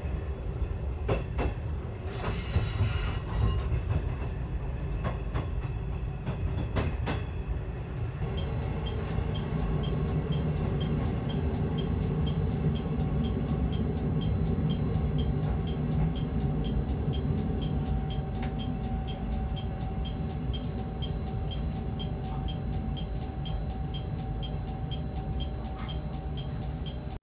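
Sanriku Railway 36-700 series diesel railcar heard from inside, rolling into a station. Its wheels click over points and rail joints, with a brief wheel squeal about two seconds in. From about eight seconds in there is a steady low engine and running hum, with a regular high tick about twice a second.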